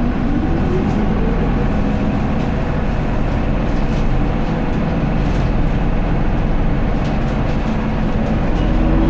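Inside an Isuzu Erga (QDG-LV290N1) city bus on the move: its diesel engine drones steadily under way along with road noise. The engine pitch dips a little at the start and climbs again near the end.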